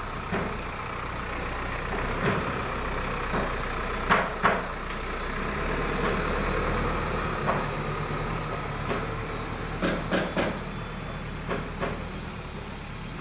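ACE AX124 backhoe loader's diesel engine running steadily, with scattered sharp metallic knocks: a pair about four seconds in and three in quick succession about ten seconds in.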